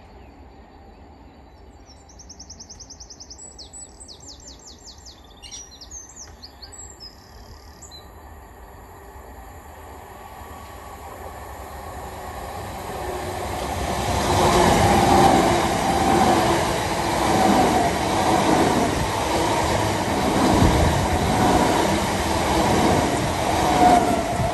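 Southeastern Class 376 electric multiple unit approaching and passing close by. Its wheel-on-rail rumble builds from about ten seconds in to a loud, steady running noise with a hum in it. A bird sings briefly in the quiet before the train comes near.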